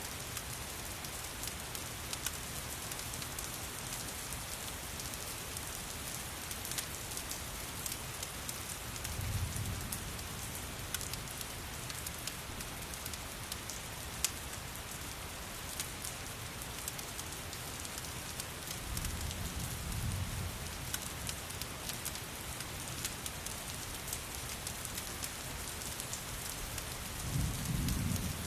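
Steady rain hiss with many small sharp crackles and drips scattered through it. Three brief, soft, low rumbles swell up about a third of the way in, about two-thirds in, and at the very end.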